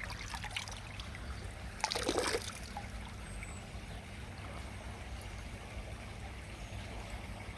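Shallow stream trickling steadily over a stony bed, with a brief louder burst of noise about two seconds in.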